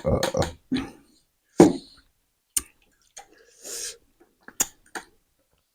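Eating sounds of people on a spicy noodle challenge: scattered short mouth clicks and smacks, brief vocal grunts, and a short breathy gasp against the chilli heat.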